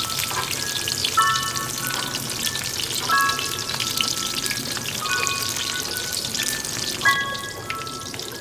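Eggplant pieces frying in hot oil in a wok, a steady dense crackle and sizzle, with light background music notes playing over it.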